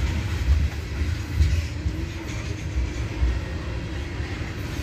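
Slow CP freight train of tank cars rolling past: a steady low rumble of steel wheels on rail, with a few heavier thumps.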